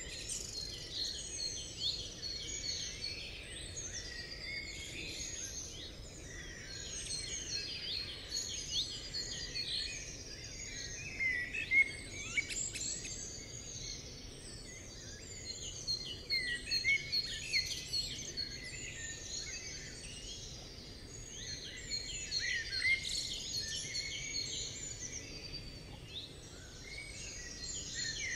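Many birds singing and calling at once, a dense mix of overlapping chirps and trills, over a steady low background rumble.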